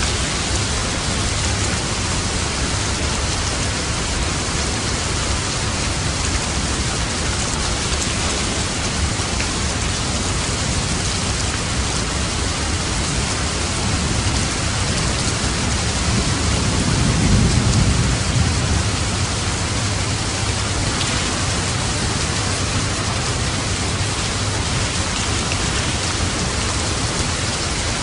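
Steady heavy rain falling on a roof. A low roll of thunder swells and fades about halfway through.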